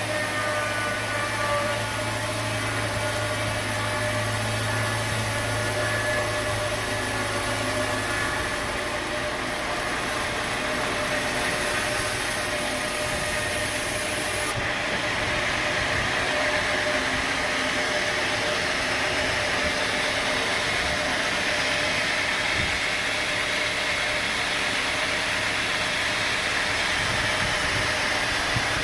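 Sawmill machinery running steadily: a continuous engine-like drone with a held whine, the low hum dropping away about a third of the way in and the sound shifting again about halfway through.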